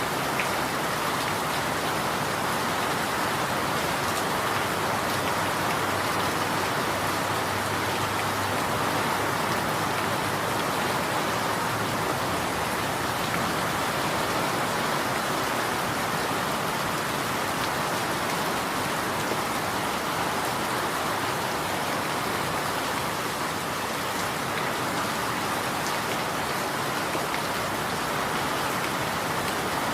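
Steady rain falling, an even unbroken hiss of drops at a constant level.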